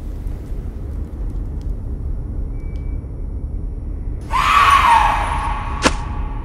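A woman's scream, about a second long, breaks out suddenly and slides slightly down in pitch, over a steady low rumble. A single sharp knock follows just under a second later.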